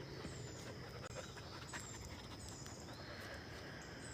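Faint dog panting, with short high falling chirps of small birds and a steady thin insect whine behind it.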